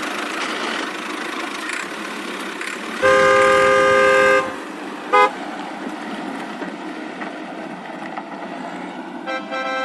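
Cartoon vehicle horn sound effects over a steady engine running: one long honk about three seconds in, a short toot a couple of seconds later, and another honk starting near the end.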